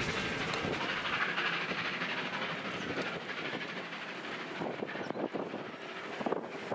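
Steam-hauled passenger train of red carriages running on the rails, wheels clattering over the track. There are several sharp knocks about five seconds in and another near the end; the train is headed by Victorian Railways R class 4-6-4 Hudson steam locomotive R707.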